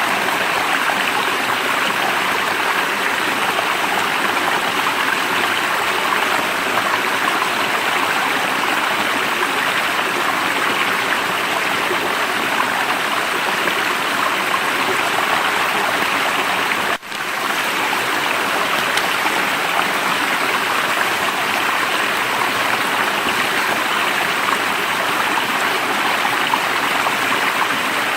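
Stream water running steadily over rocks. The sound drops out for an instant about two-thirds of the way through.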